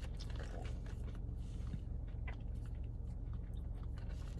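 Close-miked chewing of cheese fries, with scattered short mouth clicks, over a steady low hum.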